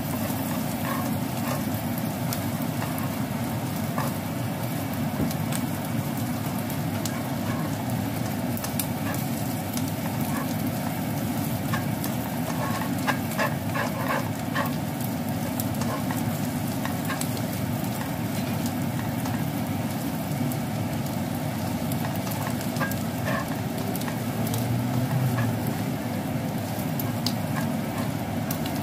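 Diced Chinese sausage and dried shrimp sizzling steadily in oil in a nonstick frying pan as they are stir-fried, with scattered light clicks and scrapes of the spatula against the pan.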